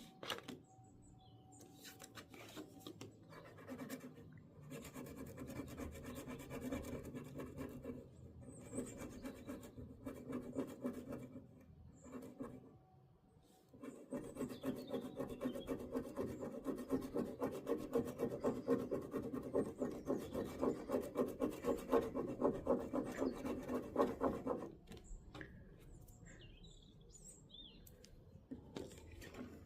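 Scratch-off lottery card being scratched with quick, rhythmic rubbing strokes in several spells. There are brief pauses at about 8 s and 13 s. The strokes are loudest in the second half and stop a few seconds before the end.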